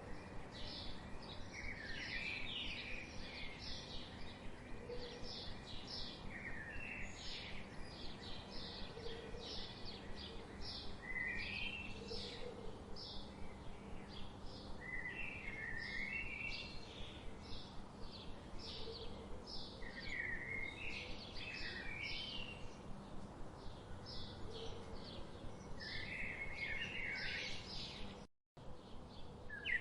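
Birds chirping: a steady stream of short, high chirps, several a second, with occasional lower warbling phrases, over a constant background hiss. The sound cuts out for an instant near the end.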